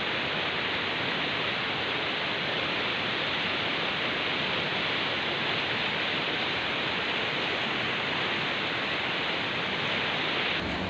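Rushing water of a fast mountain river, a steady even rush with no breaks, changing slightly just before the end.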